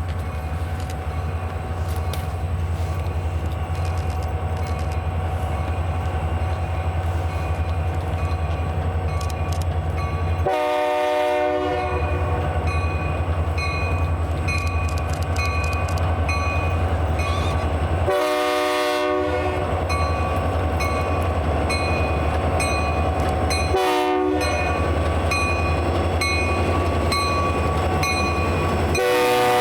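A diesel freight locomotive, BNSF 2745, sounding its chime horn in the grade-crossing pattern: two long blasts, a short one, then a long one beginning near the end. Under the horn runs a steady low engine rumble that grows slowly louder as the train approaches.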